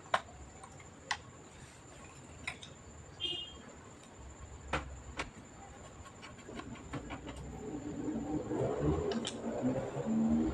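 A series of small, sharp clicks and taps spaced irregularly, several close together about two-thirds of the way in, like hardware being handled. A faint steady high whine runs underneath, and a muffled rumble builds near the end.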